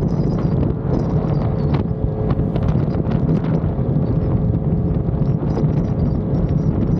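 Yamaha XSR900's inline three-cylinder engine running at a steady speed on the move, with wind buffeting the microphone.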